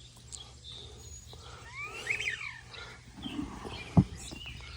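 A bird calling: a short cluster of quick whistled notes that rise and fall, about two seconds in. A single sharp knock near the end is the loudest sound.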